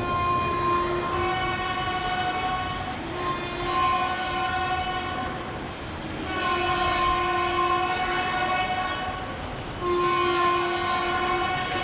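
Train horn sounding in several long blasts, a steady multi-note tone that breaks off briefly and starts again about every three seconds.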